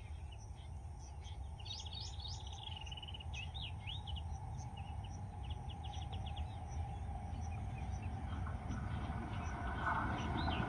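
Birds chirping and trilling over a low rumble that grows steadily louder as a train approaches.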